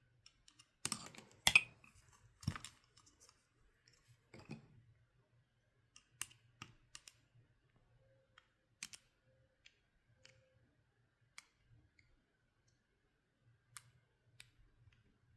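Scattered clicks and taps of small parts being handled and fitted with a screwdriver during a reassembly, the loudest about a second and a half in.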